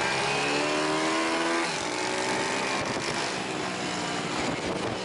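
Pit bike engine running, rising in pitch as it accelerates for about the first second and a half, then a rougher, noisier stretch.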